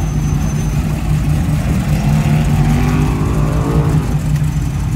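First-generation Chevrolet Camaro's engine rumbling as the car rolls past at low speed. The engine note climbs in pitch from about halfway through, then drops back near the end.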